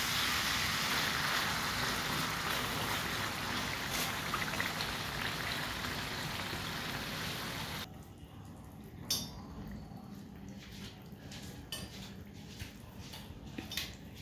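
Liver pieces frying in oily masala in a pot, a steady sizzle while being stirred with a spatula. About eight seconds in it cuts to a much quieter simmer with scattered soft pops and bubbles.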